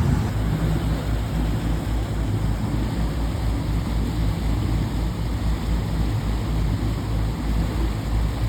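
A boat motor runs steadily as the salvage rig moves through the water, mixed with a loud, fluttering wind rumble on the phone's microphone. It gets louder right at the start and then holds steady.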